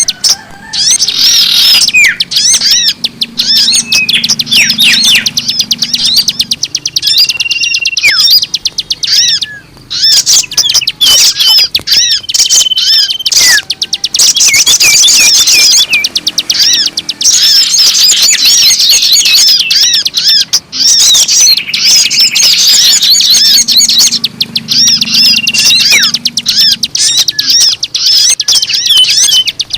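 Loud, dense chorus of many small birds chirping and trilling without a break, with a few short steady whistles among the chirps. This is a bird-lure recording that mixes the calls of many kinds of birds.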